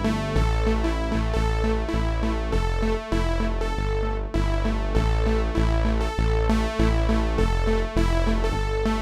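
Kurzweil K2000 synthesizer playing one of its factory programs dry, with no effects: a keyboard part of low bass notes changing about twice a second under sustained higher chords.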